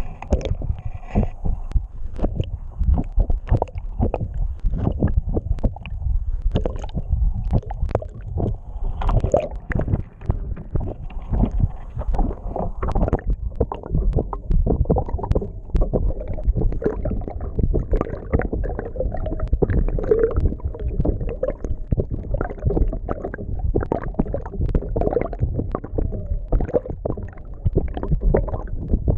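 Water rushing and gurgling around a camera held underwater from a moving sailboat: a continuous, uneven low rumble broken by many small knocks and crackles.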